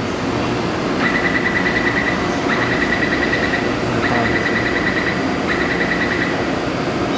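Steady running noise inside a Taipei Metro C381 train car. Over it, a high electronic beeping sounds four times, each spell a rapid string of beeps lasting about a second, with short gaps between.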